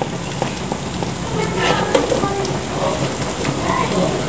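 Diced bacon and calabresa sausage sizzling as they fry in a pot, a steady hiss with many small crackles and pops.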